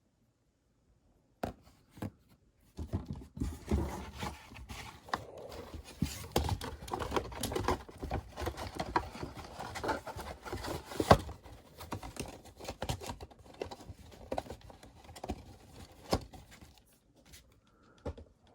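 Cardboard toy box and plastic packaging being handled and moved aside: rustling, scraping and crinkling with sharp clicks, starting about a second and a half in.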